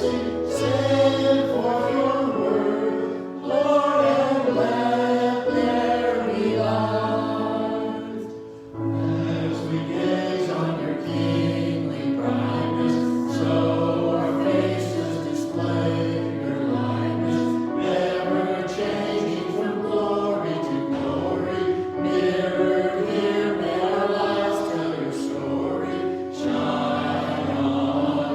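Church choir or small group of singers singing a worship song over sustained low accompaniment notes, with short breaths between phrases.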